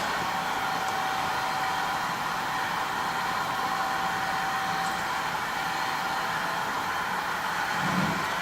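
Steam locomotive No. 6695, a GWR 56xx 0-6-2 tank engine, standing with a steady hiss of escaping steam; a thin steady whistle-like tone rides on the hiss for about the first five seconds, and a short low rumble comes near the end.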